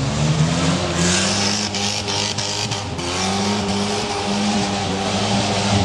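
Competition car's engine revving hard on a dirt slalom course, its pitch climbing and dipping as it accelerates and lifts between the gates. A rush of hiss with a few sharp clicks comes about one to three seconds in.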